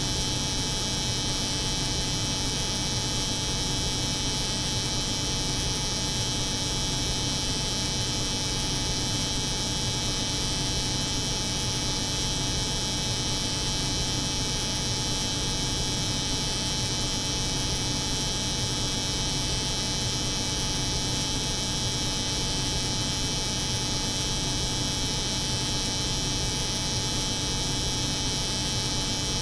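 Layered steady drone of a cold room's refrigeration hum and an electric hair clipper buzzing, with a low hum and a bright high hiss that never changes.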